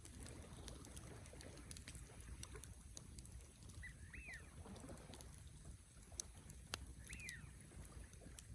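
Wood campfire crackling faintly, with scattered small pops over a steady low rumble. A bird calls twice, a short rising-then-falling note about four seconds in and again about seven seconds in.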